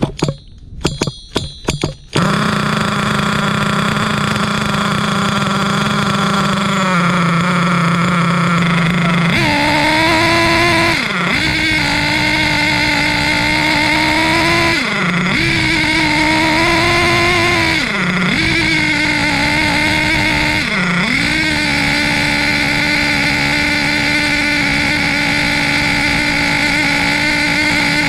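HPI Savage X4.6 nitro truck's 4.6 cc glow engine, still on a rich break-in tune with the needle leaned about a third of a turn. After a few sharp clatters in the first two seconds, it runs at a steady idle. It then revs higher, dipping briefly in pitch four times as the throttle is let off and reapplied.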